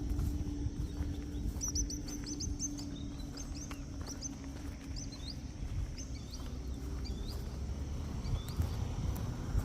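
A small songbird chirping: a quick run of short high notes about two seconds in, then single chirps spaced about half a second to a second apart. A steady low rumble runs underneath.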